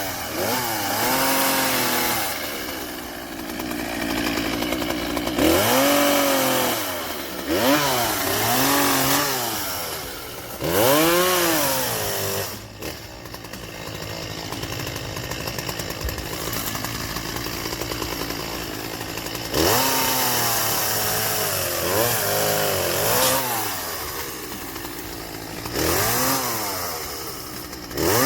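Chainsaw cutting up a fallen tree, its engine revving up and falling back again and again, with a steadier, lower-pitched stretch around the middle.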